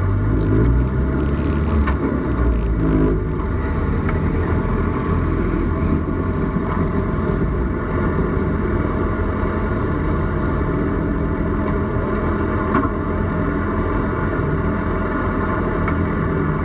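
Speedway race car engine idling, heard from inside the cockpit, with the revs shifting briefly in the first few seconds before settling to a steady idle.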